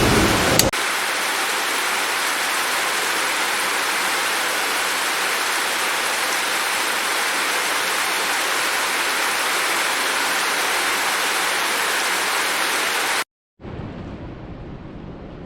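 Heavy rain falling as a steady, even hiss. A low thunder rumble at the very start cuts off abruptly. Near the end the sound drops out for a moment and gives way to a quieter, duller hiss.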